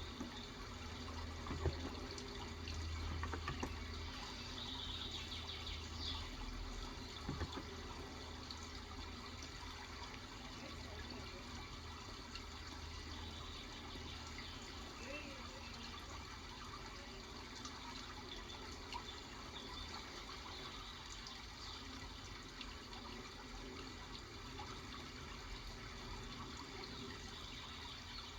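Steady running, trickling water, with occasional soft keystrokes from an electro-capacitive keyboard.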